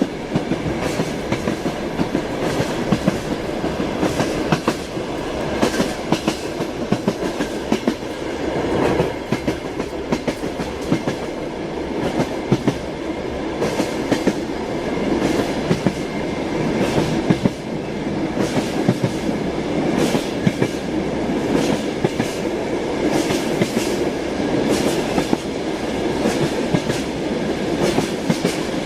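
Train wheels clattering over rail joints: a steady rolling rumble with frequent sharp clacks.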